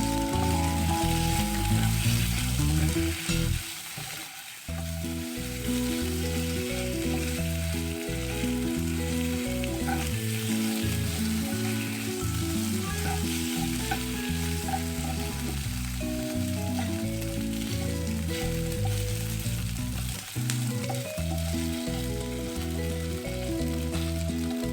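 Chicken wings sizzling as they fry in hot oil in a pan, a steady crackling hiss, under background music.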